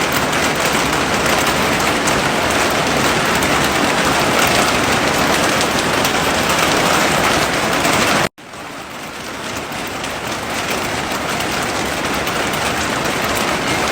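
Heavy rain falling steadily. About eight seconds in it cuts out for a split second, then comes back quieter and builds back up over a few seconds.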